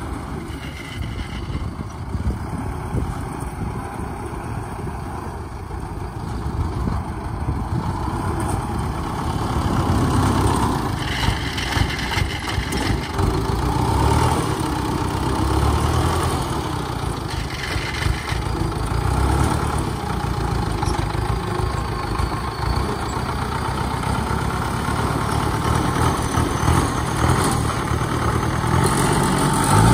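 Diesel engine of a small tracked rice-hauling tractor running steadily, the revs rising near the end.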